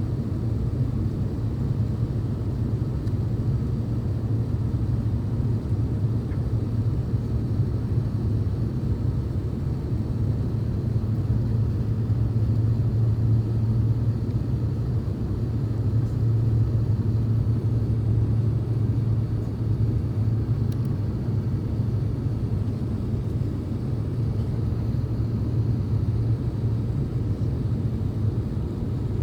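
Steady low cabin rumble of an Airbus A350-900 with its Rolls-Royce Trent XWB engines running, heard from inside the cabin at a window seat. It swells slightly about halfway through.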